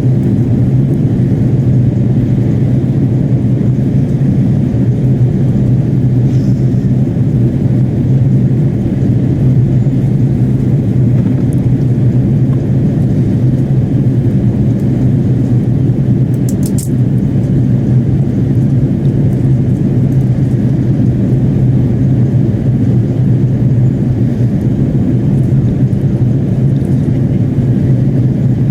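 Steady cabin drone inside an Airbus A330-300 airliner in flight: engine and airflow noise, strongest in the low range, with a few faint ticks about halfway through.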